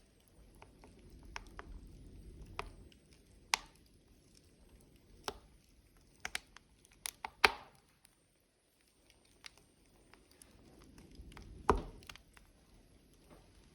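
Logs burning in a wood stove, crackling with irregular sharp pops, the loudest about halfway through and another near the end, over a soft low rumble that swells twice.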